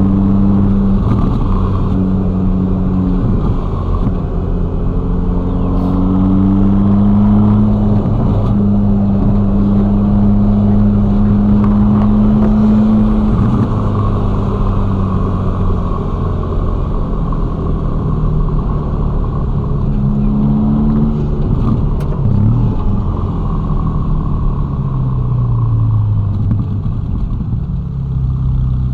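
Ferrari Roma's twin-turbo V8 at low revs in ordinary driving. Its note climbs as the car gathers speed, holds steady for several seconds, then drops as it slows, and does the same again later.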